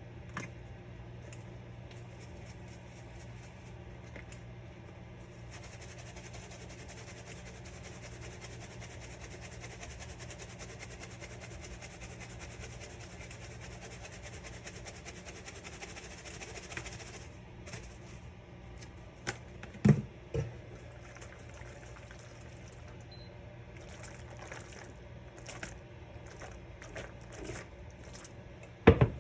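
Kitchen sounds: a steady low hum, with a rushing hiss like running water for about eleven seconds from about five seconds in, then a few sharp knocks, the loudest about twenty seconds in.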